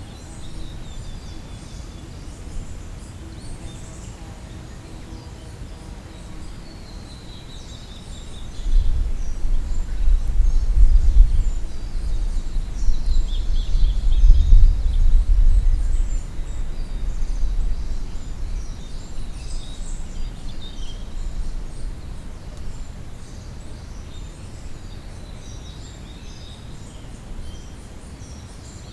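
Small songbirds chirping and singing short high phrases throughout. About a third of the way in, a loud low rumble swells for about ten seconds, then fades back to the birds.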